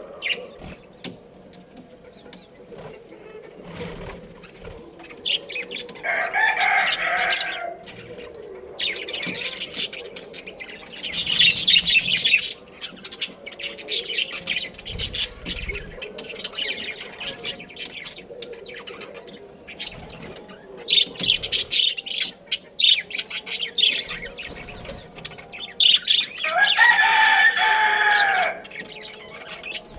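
A rooster crows twice, once about six seconds in and again near the end, each crow about two seconds long and dropping in pitch at its close. Between the crows, small birds chirp in quick high bursts.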